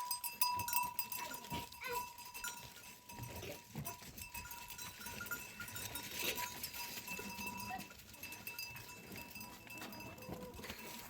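Goats moving about in a small pen: scattered short clicks and shuffling, a louder noisy burst about six seconds in, and a steady high ringing tone that continues throughout.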